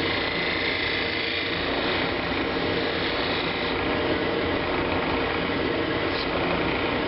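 Woodturning lathe spinning a wooden bowl blank while a turning tool cuts it, giving a steady, rough scraping and whirring noise.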